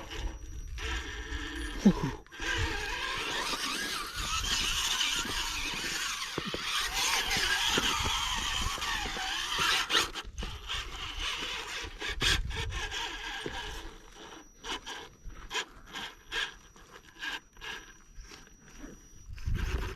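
Radio-controlled rock crawler's motor and gears running, with its tyres scraping and grinding over rock. In the last few seconds it goes quieter, with scattered sharp clicks and knocks.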